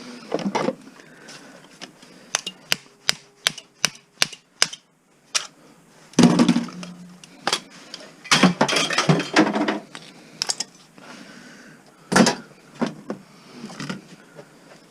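Hand dismantling of a stereo's metal and plastic parts. First a run of sharp, separate clicks, then louder bursts of clattering metal knocks and rattles.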